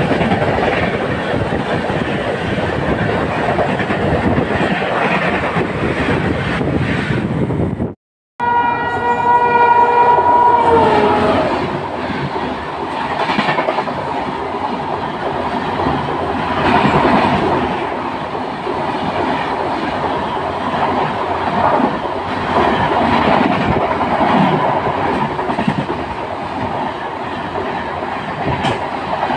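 Train running at speed, heard from an open coach doorway: a steady rumble with wheels clattering over the rails while another train passes close alongside. About eight seconds in the sound drops out for a moment, then a train horn sounds for about two and a half seconds, its pitch sagging as it ends.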